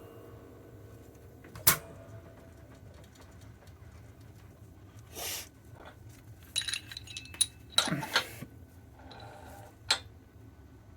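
A few sharp metallic clicks and light clinks of steel parts and tools being handled at the bench: one click about two seconds in, a quick cluster of small clinks about two-thirds of the way through, and a last click near the end, with a faint steady hum between.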